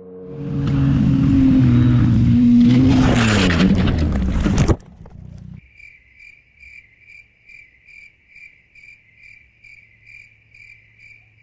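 Yamaha MT-09's inline-three engine running hard with wind rush, its pitch dropping near the end before it cuts off abruptly about five seconds in. Then cricket chirping, a steady repeated chirp about twice a second.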